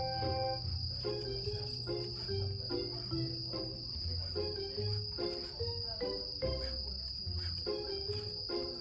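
Insects, cricket-like, keep up a steady high-pitched trill throughout. Under it runs background music with a simple melody over a bass line.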